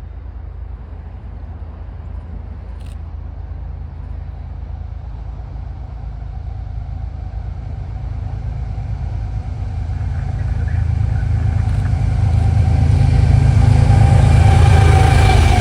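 Diesel locomotive approaching, its low engine rumble building steadily louder and loudest near the end.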